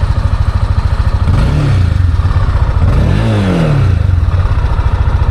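Honda CB300's single-cylinder engine through its stock exhaust, idling with two quick blips of the throttle, the second revving higher, each rising and falling back to idle.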